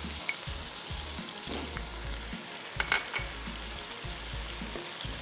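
Beef mince sizzling as it fries in oil in a pan while being stirred, with ground spices going in. A few sharp clinks stand out, the loudest about three seconds in.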